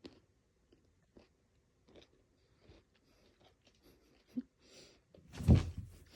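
A kitten scrabbling and rustling, with scattered small clicks and crinkles, then a louder burst of rustling and a thump about five and a half seconds in.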